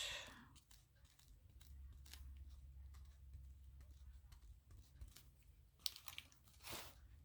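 Near silence with faint small clicks and scratches from handling art supplies, and two brief louder rustles about six and seven seconds in.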